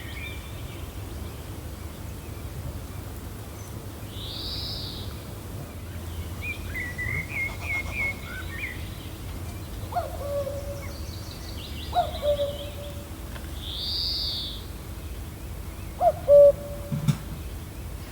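Wild birds calling and chirping over a gentle, steady wind. Short high chirp runs and arched calls alternate with brief low hooting calls every couple of seconds in the second half, the loudest a little past the middle of that stretch.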